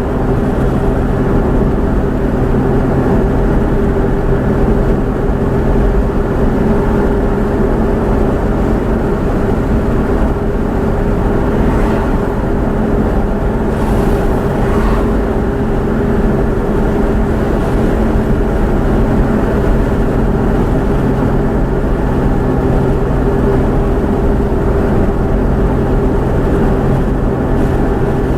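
A motor vehicle's steady running drone with a constant low hum, unchanging in pitch and level.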